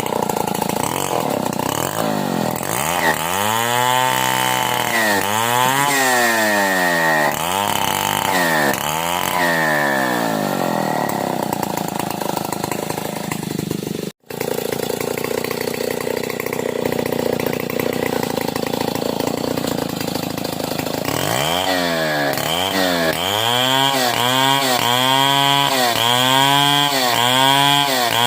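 Stihl 070 two-stroke chainsaw running hard while ripping a long wooden beam lengthwise. Its engine pitch swings up and down over and over, about once a second, with a steadier stretch in the middle. The sound drops out for an instant about halfway through.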